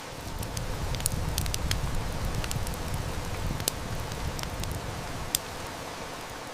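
Steady heavy rain with a wood fire crackling, giving many sharp snaps. A low rumble of distant thunder swells in the first second and fades away over the next few seconds.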